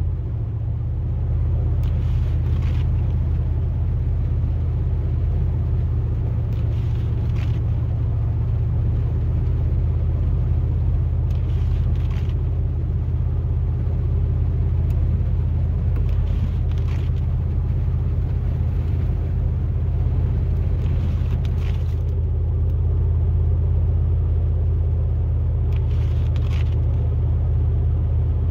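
Pickup truck driving at highway speed, heard from inside the cab: a steady low engine and road drone, with a short swish about every five seconds.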